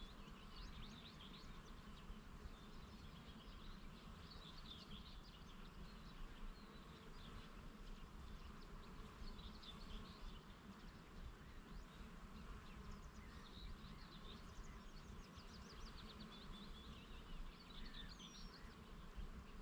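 Faint meadow ambience: small birds chirping and trilling again and again, over a steady low buzz of bees.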